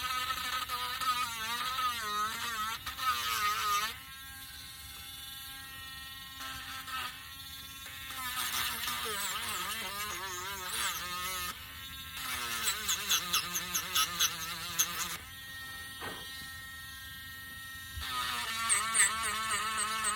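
Small handheld rotary tool sanding wood, running in four bursts. Its buzz wavers in pitch as the tip is pressed into the wooden cutout, with a quick rattling chatter in the third burst.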